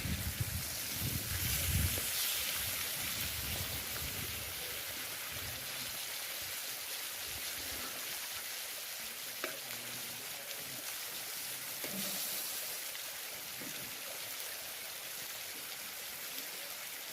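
Fish frying in oil over an open fire, a steady sizzle with a few faint pops.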